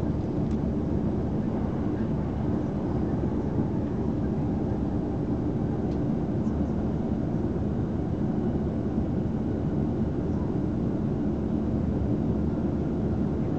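Passenger train running at speed, heard from inside the carriage: a steady, low rumble of wheels on rail and the car body, with a faint steady hum in it.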